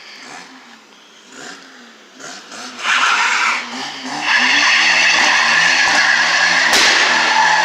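A vehicle engine running hard: loud noise rises about three seconds in and holds steady at high revs from about four seconds on, with a hiss like tyres over it and one sharp crack near the end.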